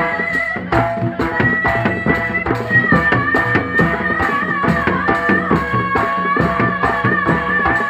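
Live jaranan music: a steady beat of drums and percussion under a held, wavering melody line.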